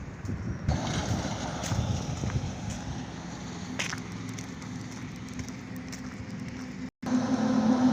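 Highway traffic noise from trucks, a steady rushing drone with a few light clicks. The sound drops out briefly about seven seconds in, and then a louder, steady engine drone with a low hum begins.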